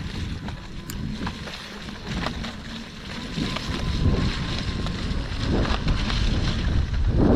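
Wind buffeting the microphone of a rider on an electric unicycle on a wet trail, a rough low rumble with a few faint clicks, growing louder toward the end.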